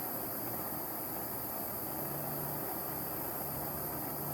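Steady hiss of a flame heating an oxygen sensor red-hot. The sensor is being tested to see whether it produces a voltage. About halfway through, a low steady hum joins in.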